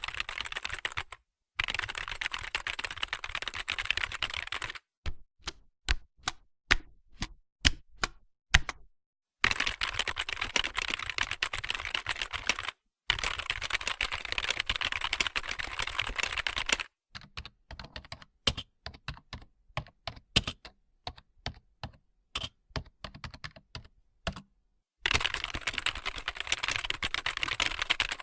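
Typing on a computer keyboard: several runs of rapid key clicking that cut off abruptly, alternating with stretches of slower, separate keystrokes.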